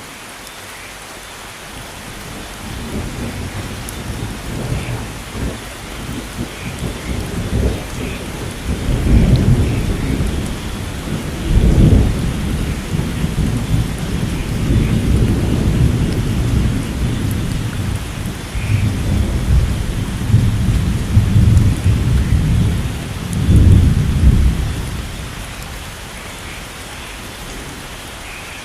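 Steady rainforest rain with a long rolling thunder rumble. The rumble builds a couple of seconds in, swells to loud peaks several times, and dies away near the end, leaving the rain hiss.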